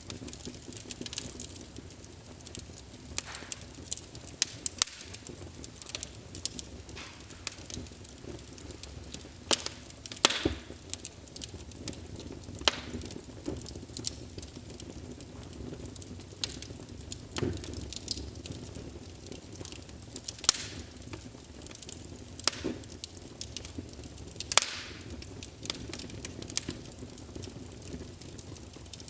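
Wood fire crackling in a fireplace: irregular sharp snaps and pops, a few louder ones every couple of seconds, over a faint steady low rush of the burning.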